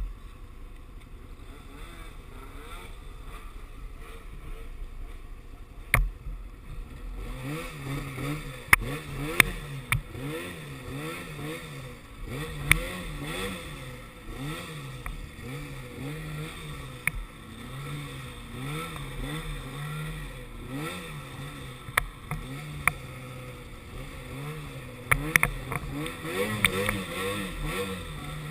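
Snowmobile engine running, low and steady for about the first six seconds, then its pitch rising and falling over and over as the throttle is opened and eased off while riding. Sharp knocks come now and then.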